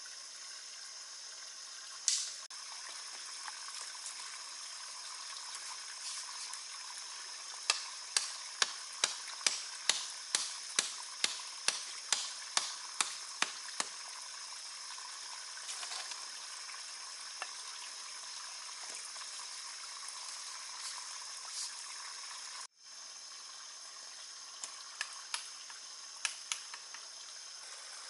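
A run of about sixteen sharp, evenly spaced knocks, roughly two and a half a second, over a steady hiss. A single louder knock comes early, and a few more scattered knocks come near the end.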